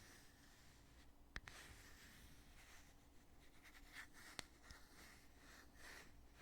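Heavy lid of a foundation cosmetic container being opened and closed: two sharp clicks, one about a second and a half in and one past four seconds, with faint rubbing of the lid between.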